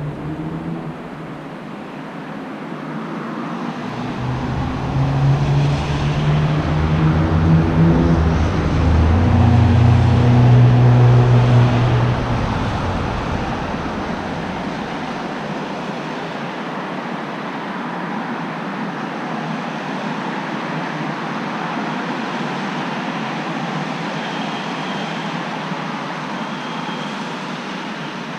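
Night road traffic in the rain: a vehicle passes with a low engine hum that swells through the first half and drops in pitch as it goes by, over a steady hiss of wet road and rain.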